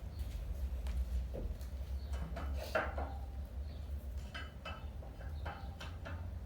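Background ambience of a kettlebell sport competition: a steady low rumble with scattered light clicks and clinks and a few brief faint distant voice-like sounds.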